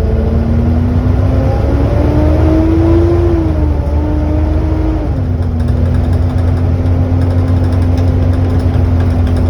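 Volvo B7TL double-decker bus running under way, heard on board: a low engine rumble with a loud whine on top, the sound that gives the bus its 'hoover' name. The whine rises in pitch a couple of seconds in, falls back about five seconds in, then holds steady.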